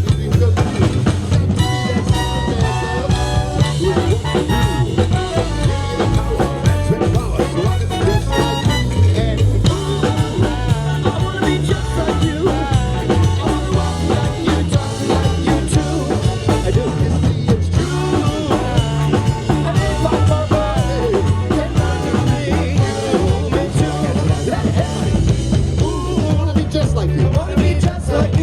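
Live band playing an upbeat tune over a drum kit with a steady beat.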